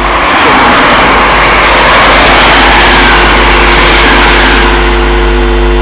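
Class 365 electric multiple unit passing close by, a loud steady rush of wheel and rail noise that is strongest in the first couple of seconds. A steady electrical hum runs underneath.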